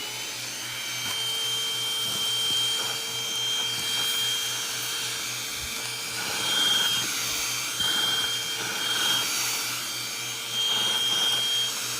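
ONSON cordless handheld vacuum cleaner running steadily with a high whine over a hiss, its loudness swelling now and then.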